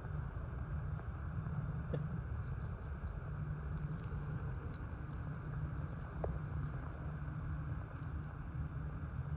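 Low, steady rumble of wind buffeting the microphone while walking in the woods, with a few faint clicks and a faint high trill about five seconds in.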